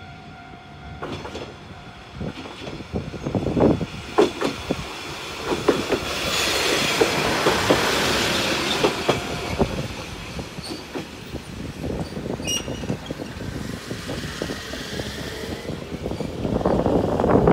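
A single-car diesel railcar passes close by over a level crossing. Sharp wheel clicks over the rail joints come first, then the louder rush of the car going by, which peaks a few seconds later and fades.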